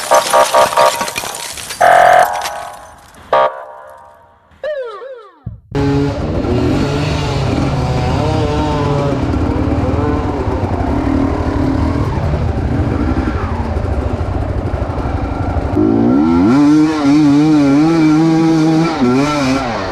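Intro sound effects with falling whooshes, then from about six seconds in, Chinese motorcycle engines running and revving, the pitch wavering up and down and getting louder near the end.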